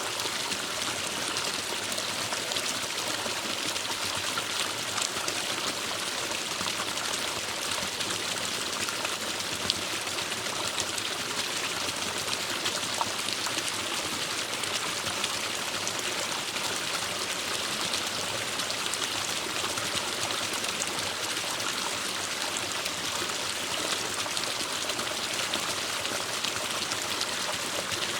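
Forest stream running over rocks: a steady rush and babble of water, with small splashes and drips scattered through.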